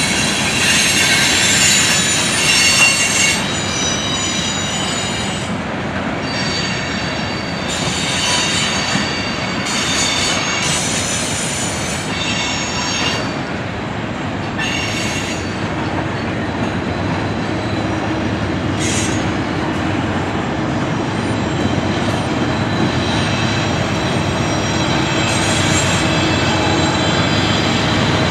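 Freight train cars rolling past, with a steady rumble of steel wheels on rail and a high-pitched wheel squeal that comes and goes.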